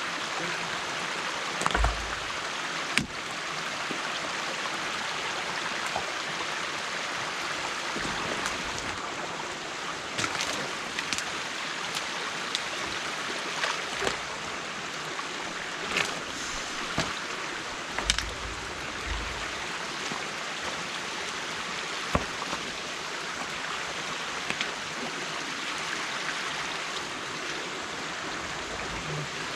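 Water from a beaver dam running steadily, with scattered knocks and a few low thumps.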